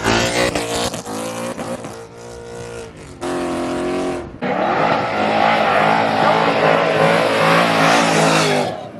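A car engine revving hard, held at a steady high note for about a second, then running under a loud hiss of tire squeal for about four seconds, as in a burnout, before cutting off sharply near the end.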